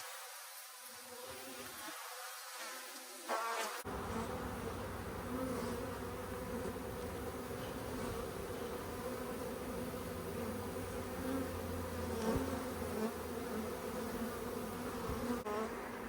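Honeybee swarm buzzing: a dense, steady hum of many bees, which grows fuller and a little louder about four seconds in.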